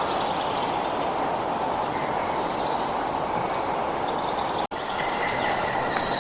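Steady rushing outdoor ambience with birds chirping over it: a few short high chirps near the start and a longer falling call near the end. The sound cuts out for an instant a little before five seconds in.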